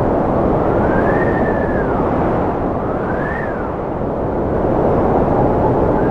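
Strong cold wind blowing as a steady rush, with a whistling tone that twice rises and falls.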